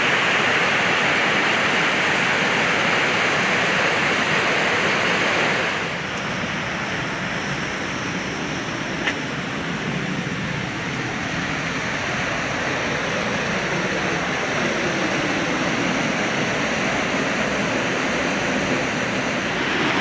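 Waterfall at the Falls of Bruar, water rushing down the gorge in a steady roar of noise. About six seconds in it drops in level and becomes duller, and there is a single short click about nine seconds in.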